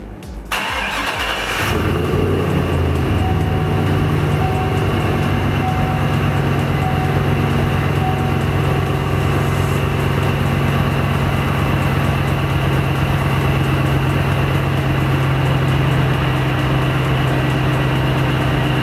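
Supercharged V8 of a 2003 Chevrolet Avalanche Z71 (Magnuson Radix MP112 supercharger) running steadily. It comes in abruptly about half a second in and settles into an even note within the next second or so.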